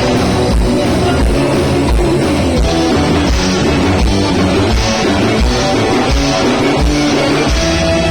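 Band music with guitar and drums, playing an instrumental passage over a steady low beat.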